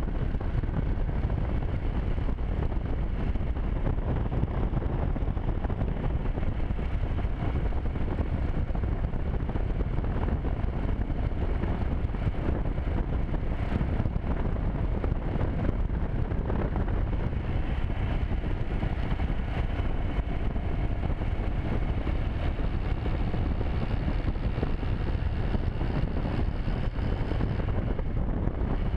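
Motorcycle engine running at a steady pace while riding, mixed with steady wind noise on the microphone.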